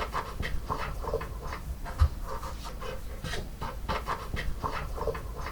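A dog panting in a quick, even rhythm, with a low thump about two seconds in.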